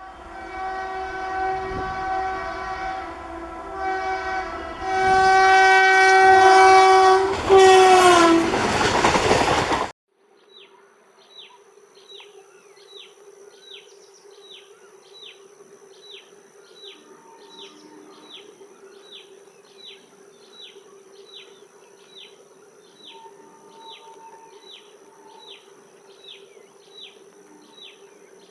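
WAP-1 electric locomotive's horn sounding in two long blasts, the second louder, its pitch dropping as the locomotive passes, with the rush and rattle of the passing train. About ten seconds in, the sound cuts off suddenly. Short chirps follow, repeating about one and a half times a second over a faint steady hum.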